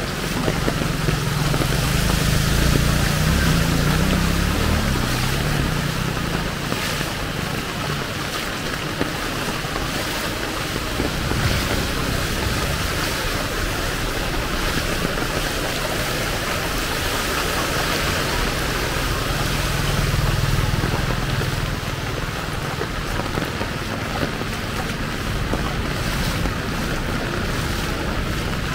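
Heavy rain falling steadily, an even hiss. A low rumble of passing traffic swells twice, near the start and about two-thirds of the way through.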